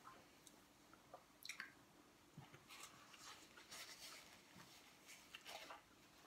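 Near silence with faint chewing of food and soft rustles of a paper napkin wiping the mouth.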